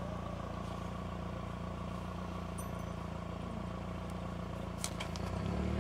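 Car engine running steadily at idle. A click comes about five seconds in, then the engine's hum changes and gets louder near the end.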